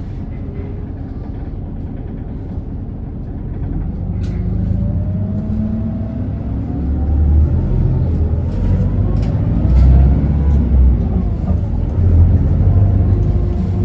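Isuzu Erga city bus heard from inside the cabin as it pulls away: the diesel engine's rumble grows louder from about four seconds in, and a whine rises in pitch with speed, then drops back at about ten seconds. A few sharp clicks and rattles are heard along the way.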